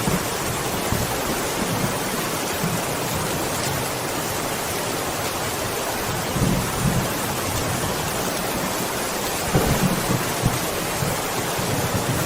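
Steady rain falling in a thunderstorm, with deep rolls of thunder swelling about six seconds in and again near ten seconds.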